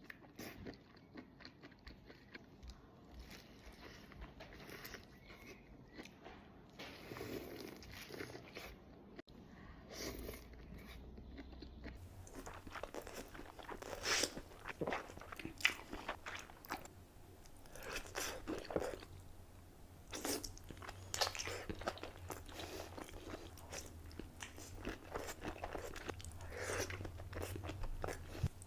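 A person eating close to the microphone, mukbang-style: biting and chewing food with repeated sharp crunches, which come thicker from about halfway through.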